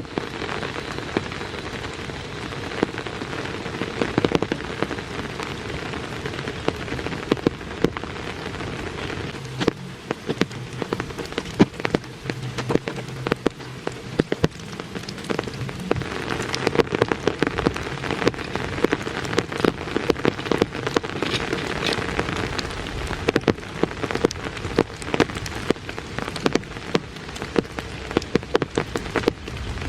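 Steady rain falling, with many individual drops landing close by as sharp taps over an even hiss.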